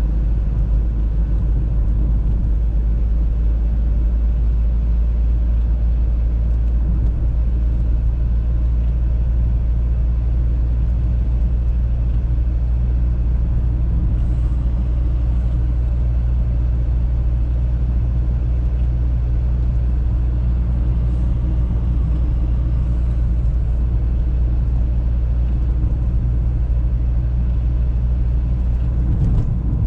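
Steady low drone of an Audi A3 driving, its engine and road noise running evenly throughout.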